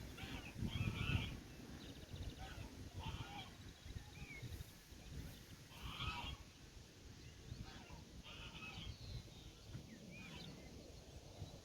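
Countryside ambience with short farm-animal and bird calls every second or so, some of them small chirps, over a low uneven rumble.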